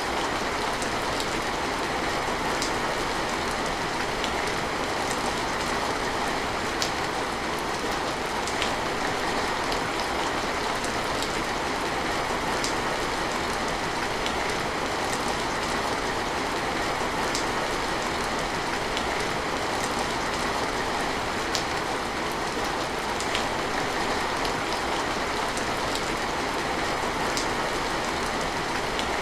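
Steady heavy rain falling on a surface, an even hiss with scattered sharper drips.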